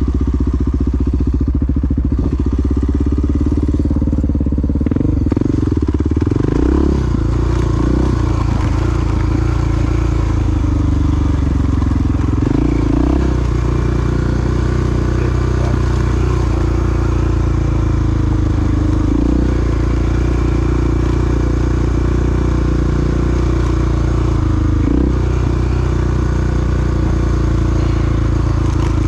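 Single-cylinder four-stroke dual-sport motorcycle engine running under way, loud and steady. Its note dips and recovers briefly several times.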